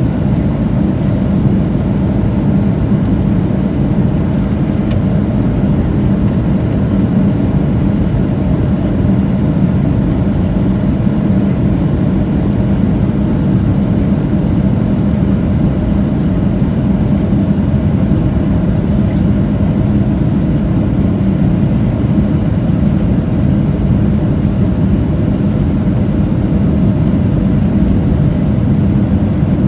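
Steady in-flight cabin drone inside a Boeing 737-700: CFM56 engine and airflow noise heard from a window seat. A faint steady hum in it fades out about halfway through.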